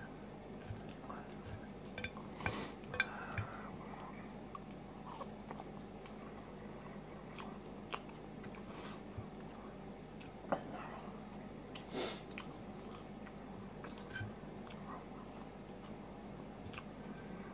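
A person chewing food close to the microphone, with scattered small mouth clicks and a few louder taps of a metal fork on a ceramic plate.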